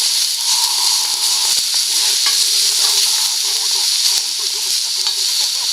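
Food sizzling steadily in a steel crepe pan over a campfire.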